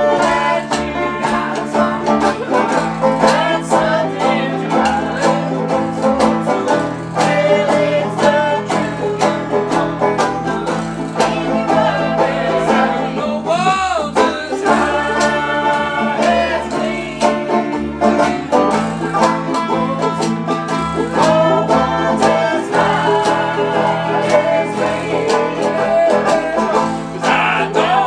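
Bluegrass band playing a song: banjo picking over guitar, with a steady bass line.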